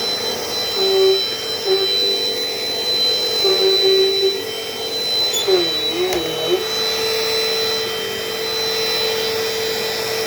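Dirt Devil Dynamite Plus upright vacuum cleaner running steadily, its motor giving a constant high whine over the rush of air. Short lower tones come and go in the first few seconds, and a brief wavering tone sounds about six seconds in.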